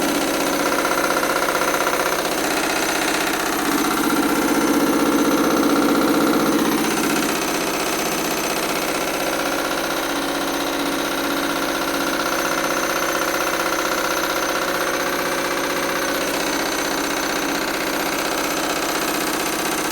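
Candy washing machine on its final spin at high speed, the drum badly out of balance and shaking the machine, under a steady motor whine. It grows a little louder a few seconds in, then settles.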